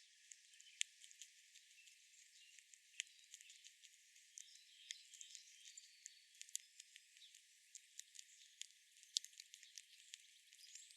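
Faint outdoor nature ambience: many small, irregular clicks and ticks, a few of them sharper, with a few faint high chirps. The sound is thin and high, with no low end.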